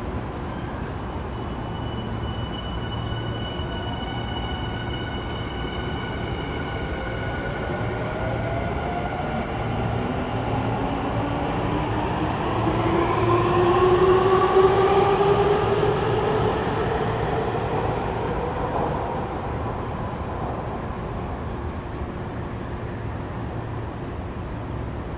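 Electric train traction motors and inverter whining as a train accelerates. Several tones rise in pitch together, loudest about halfway through, then fade, over a steady low hum.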